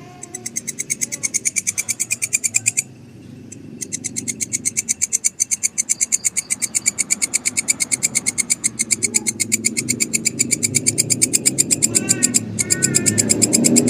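A grasshopper calling: a fast, even series of high rasping pulses, about six a second, that breaks off for about a second early on and starts again, growing louder toward the end.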